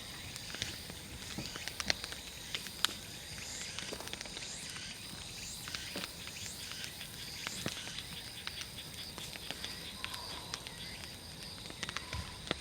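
Large wood bonfire crackling, with frequent sharp pops and snaps at irregular intervals, over a steady high-pitched insect drone.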